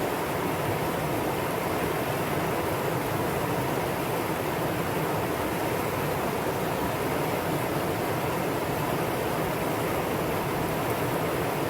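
Valley stream flowing, a steady, unbroken rush of water.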